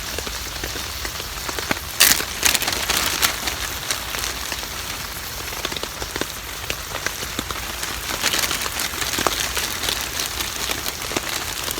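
Heavy rain falling on a tarp overhead: a dense steady patter with many individual drop ticks. About two seconds in there is a brief, louder burst of noise.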